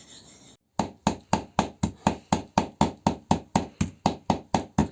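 Knife chopping on a cutting board in a fast, even rhythm of about four to five strokes a second, mincing meat for momo filling. The chopping starts just under a second in, after a brief silence.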